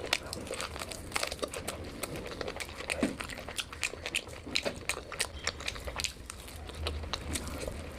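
Close-miked eating: a person chewing and biting into food, with many irregular crisp crunches and wet clicks.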